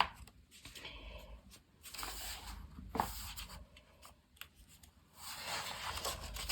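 Pages of a paperback colouring book being turned and handled: soft paper rustles, twice, with a few light taps.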